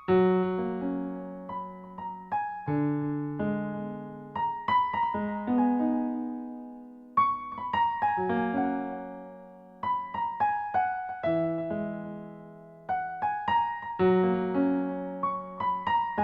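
Background piano music: gentle phrases of struck, fading notes over a low bass note, starting afresh every few seconds.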